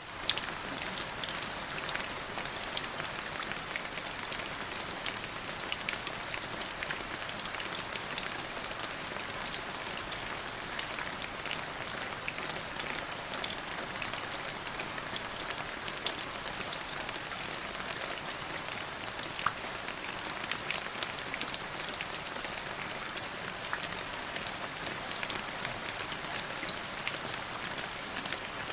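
Steady rain falling on a hard surface: an even hiss dotted with the sharp ticks of individual drops.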